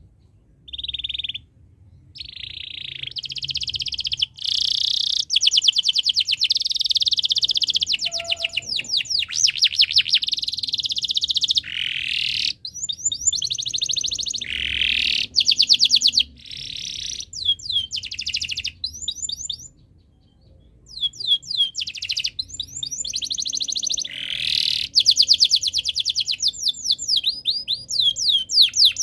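Domestic canary in breeding condition singing at full voice: long, very fast trills and rolling runs of quick repeated notes, broken by short pauses, one of them about twenty seconds in.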